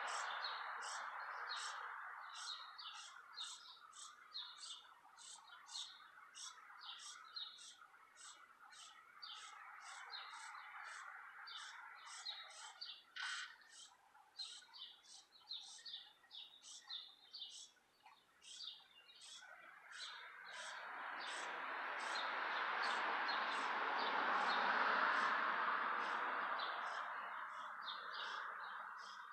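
A bird chirping over and over, short high chirps about two a second. Under it a broad rushing background noise is fairly strong at first, dies down, then swells again to its loudest about three-quarters of the way through.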